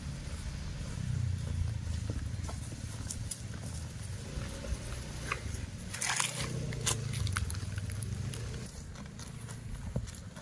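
Cattle grazing: grass being torn and chewed, a scattered run of crunching clicks with a denser rustling crunch about six seconds in, over a steady low rumble.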